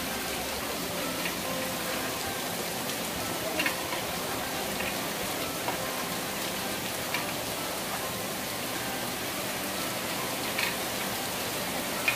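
Heavy hurricane rain pouring down in a steady, dense hiss, with a few sharper taps of drops close by.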